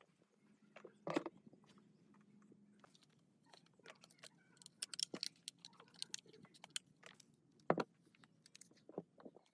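Hand work on small parts: scattered clicks, taps and clinks, with a louder knock about a second in and another late on.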